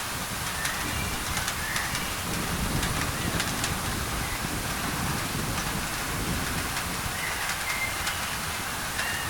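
Steady rain pattering on a thin tin roof, laid over white noise, with a low rumble of thunder swelling a couple of seconds in. A few short bird chirps sound through the rain.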